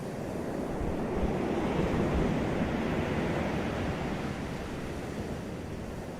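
Ocean waves breaking on a beach: one wave rises into a rushing wash of surf about a second in and slowly subsides over the next few seconds.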